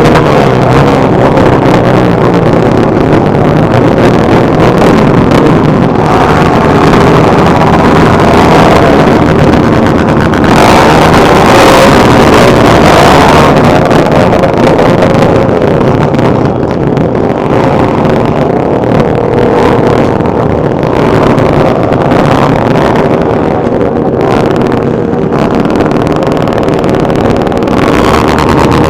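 Many motorcycle engines running together, loud and continuous, their pitch rising and falling as riders rev.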